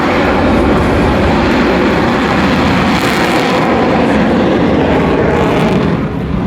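Military fighter jet's engines, a loud steady rushing noise as the jet flies its tactical pitch manoeuvre past the crowd.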